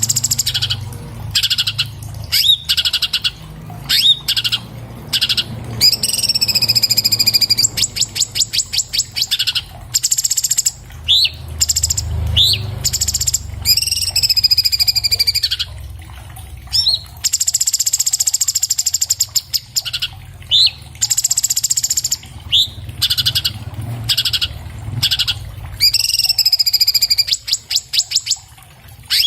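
Orange-bellied leafbird (cucak cungkok) singing loudly and without pause: a fast, varied song of high whistled phrases, rapid trills and short swooping notes, with brief gaps between phrases. A low rumble runs underneath.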